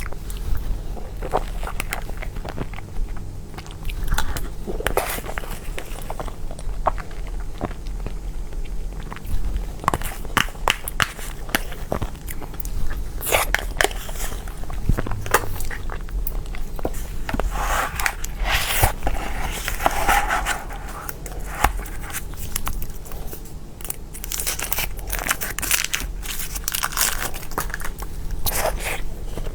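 Close-miked eating of cake: irregular bites and chewing, with many short clicks and some crunchy bites.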